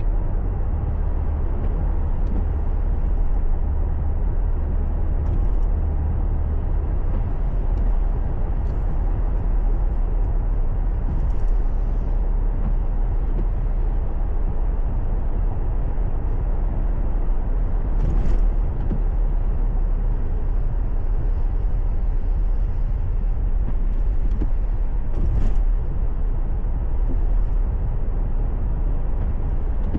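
Car on the move with steady low road and engine rumble, heard from the cabin. Two brief knocks come about two-thirds of the way through and again near the end.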